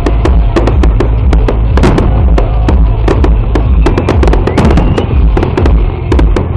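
Fireworks display: a rapid barrage of shell bursts and crackling bangs, many sharp reports in quick, irregular succession over a deep continuous rumble.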